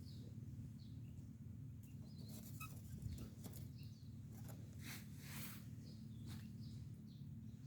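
Wood campfire crackling with scattered sharp pops over a low steady rumble, with small birds chirping faintly and high.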